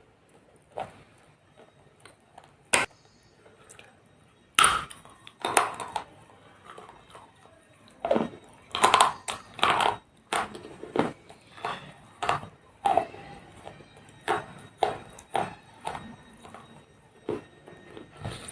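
Small baked clay pots being crushed: a string of sharp cracks and crunches at irregular spacing, coming thickest about five and nine seconds in.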